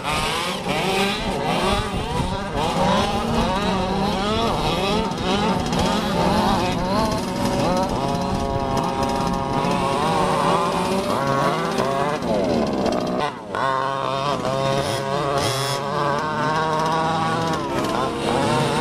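Small two-stroke engines of large-scale RC cars revving, several at once, their pitch rising and falling over a steady lower engine drone. There is a brief dip about 13 seconds in.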